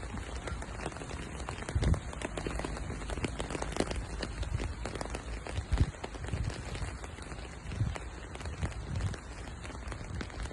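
Rain falling and pattering: a dense crackle of drops, with a couple of louder thumps about two and six seconds in.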